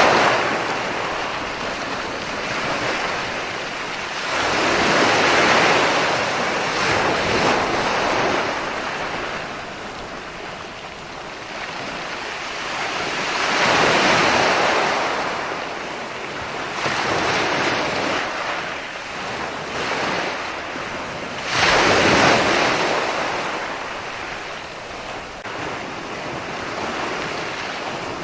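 Ocean waves breaking on a shore, each surge swelling and then fading, about every eight seconds.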